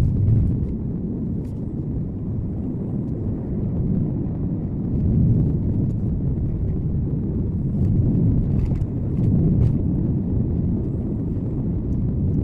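Car on the move, heard from a dashcam inside the cabin: a steady low road-and-engine rumble that swells slightly a few times, with a few faint clicks.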